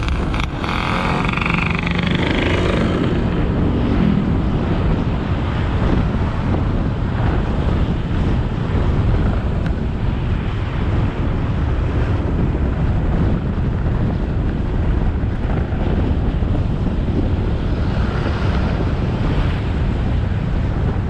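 Motorcycle engine running at riding speed under steady wind noise on the microphone, with road and traffic noise mixed in.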